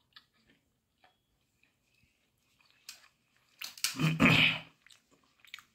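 A person chewing food close to the microphone, with faint wet mouth clicks, then a brief loud noise about four seconds in.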